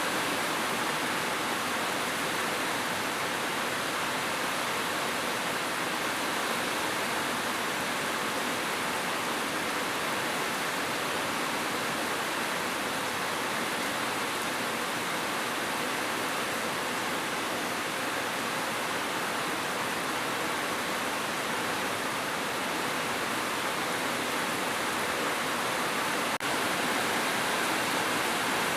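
Steady, continuous rain: an even hiss with no single drops standing out.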